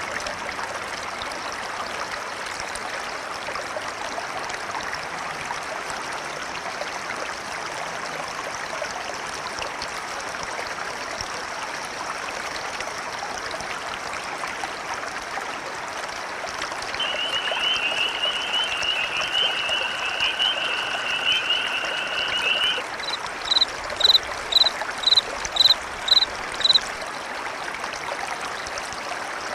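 A river flows steadily. Frogs call over it: a high trill held for about six seconds past the middle, then about seven short, sharp high calls in a quick, even series, the loudest sounds here.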